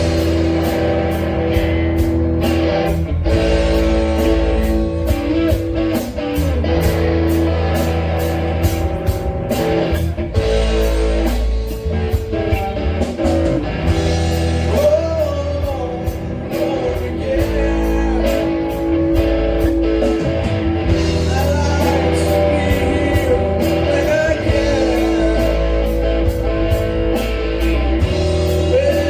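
A rock band playing a song: a singer over electric guitar, bass and drums, with the cymbals keeping a steady beat.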